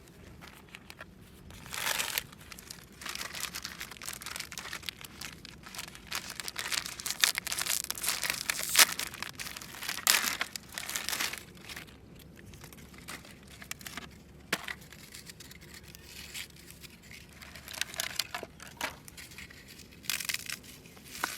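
Irregular rustling and crinkling noises in uneven bursts, busiest in the first half, with quieter stretches between.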